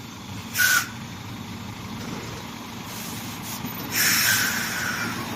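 Heavy truck's air brakes hissing twice over a low steady engine hum: a short burst about half a second in, then a longer one about four seconds in.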